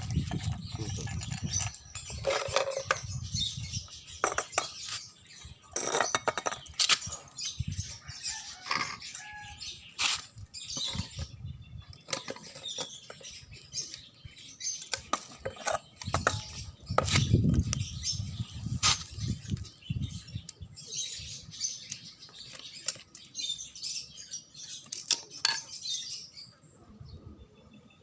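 Irregular clicks, knocks and rustling of hand work on a grass cutter's parts, with two bursts of low rumble, one at the start and one about 17 seconds in.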